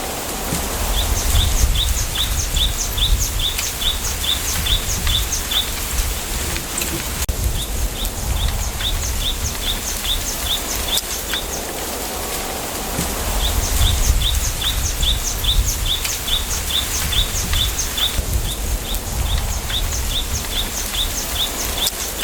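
Wind hissing through a bamboo grove, with low gusts buffeting the microphone. Over it, a small bird repeats a short, high, falling note about three times a second in runs of several seconds, pausing between runs.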